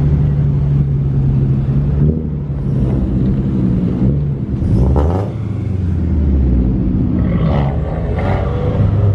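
A car engine running loudly at low revs, its note shifting up and down several times as it is revved.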